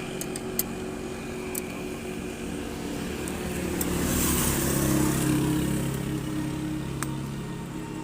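Motorcycle engine idling, revved up briefly about four seconds in and easing back to idle, running again after a roadside fix. A few sharp clicks near the start.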